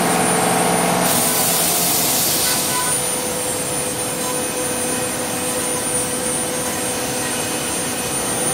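CNC wood lathe making a finishing pass with a 6 mm ball-nose cutter: a steady machine whine over the hiss of the cutter on the turning wood. About a second in, a lower hum drops away and the hiss briefly grows louder.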